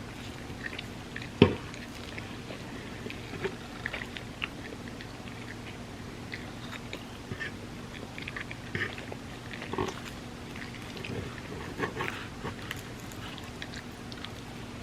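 Close-miked chewing and wet mouth sounds of someone eating soft crepe cake, scattered small smacks and clicks. A sharp click about a second and a half in is the loudest sound, over a steady low hum.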